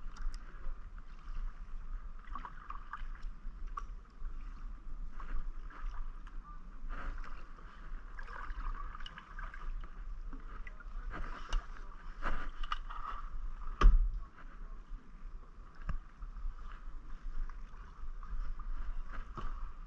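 Kayak paddling: paddle strokes splashing and dripping water, with scattered small knocks and one louder knock about fourteen seconds in.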